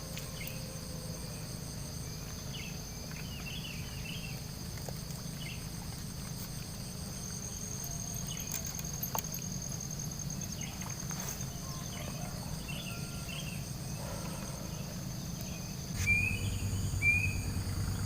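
Insects trilling steadily in high, overlapping tones, one of them with a fast pulse, with short scattered chirps over the top. Near the end a low steady hum and some louder sounds join in.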